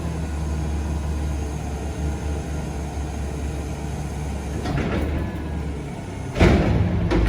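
Garbage truck's diesel engine running at a steady idle, then about six seconds in a sudden loud burst of hissing, clattering noise as the truck's loading equipment works.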